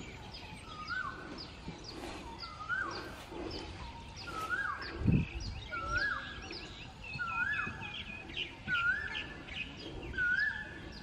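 A bird calling over and over, each call a short rising note that then holds level, repeated about once a second, with other birds chirping higher behind it. There is one low thump about five seconds in.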